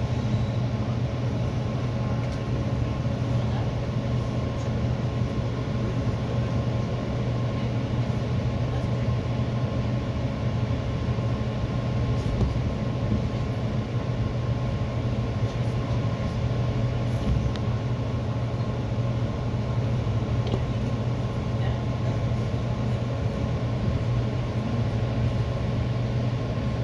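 Interior of an EXO commuter train coach rolling along the tracks: a steady low rumble with a constant hum.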